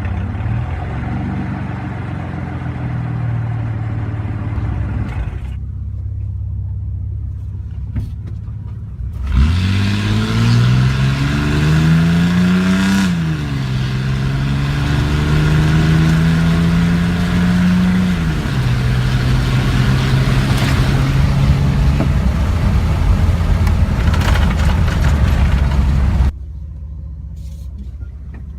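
Straight-piped Ford F-150 straight-six with the muffler deleted, running loud and pulling hard. Its pitch rises, then drops at a gear change, twice, before settling into a steady cruise.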